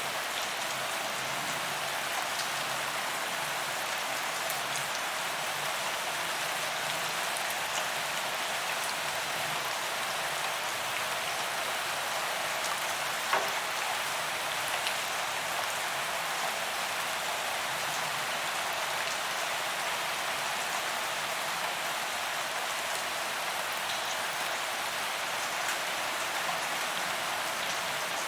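Steady rain falling on a paved walkway, a dense even hiss of drops hitting the pavement with scattered louder drop ticks, one sharper drop about halfway through.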